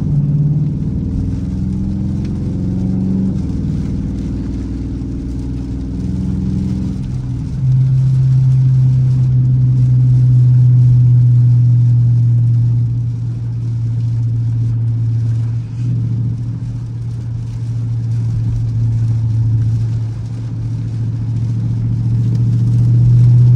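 Dodge Charger R/T's V8 engine running on the move, its pitch shifting for the first several seconds. About seven seconds in it settles into a steady, louder low drone as the car cruises.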